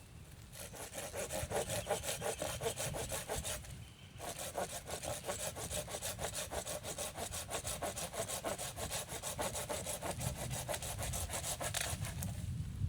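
A handsaw cutting through wood in quick, even back-and-forth strokes, with a short pause about four seconds in before the sawing resumes.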